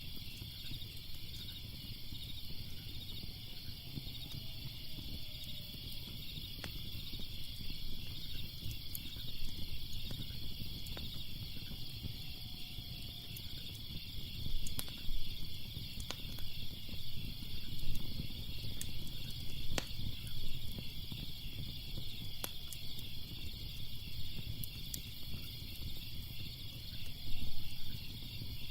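Crackling fire with sharp pops every second or two and a low rumble underneath, over a steady chorus of chirping crickets.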